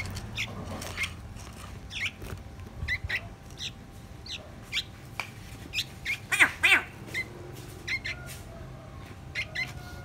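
Caged fledgling songbirds giving short, high begging calls, each call sweeping downward, scattered irregularly with a loud cluster about six seconds in. A steady low hum runs underneath.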